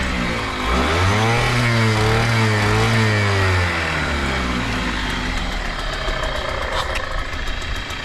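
Yamaha TDR50's small two-stroke single-cylinder engine blipped up and held at raised revs, then dropping back about three and a half seconds in and settling to a rougher, lower running with a few light ticks near the end. It runs without any abnormal noise.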